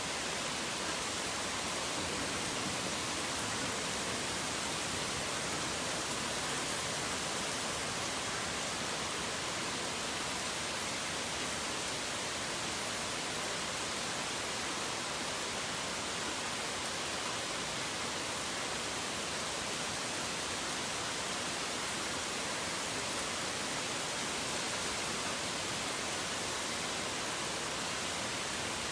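Steady heavy rain falling: an even, unbroken hiss, strongest in the upper range, with no thunder or separate drops standing out.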